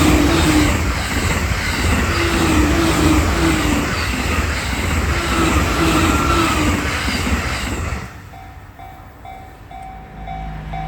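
Train passing at high speed over a level crossing, a loud rumble with a repeating rising and falling whine, which drops away abruptly about eight seconds in as the train clears. The crossing's warning bell then rings alone in an even, steady rhythm.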